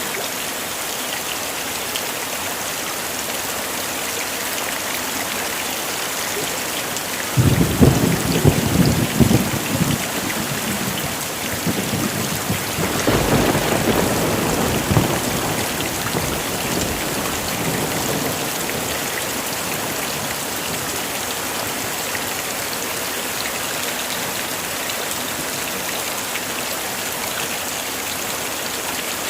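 Heavy, steady rain. About seven seconds in a thunderclap breaks out suddenly and crackles for a couple of seconds, followed by a second rumble of thunder a few seconds later.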